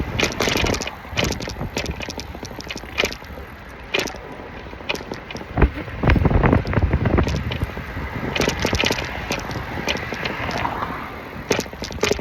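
Road noise while riding a rental city bike, with frequent short clicks and knocks and a louder low rumble about six seconds in.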